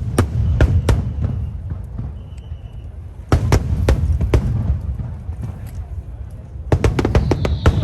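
Aerial fireworks going off in three quick volleys of sharp bangs and crackles, about three seconds apart, over a steady low rumble.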